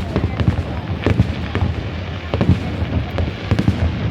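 Fireworks exploding: a rapid, irregular run of bangs and crackles, several a second, over a steady low rumble.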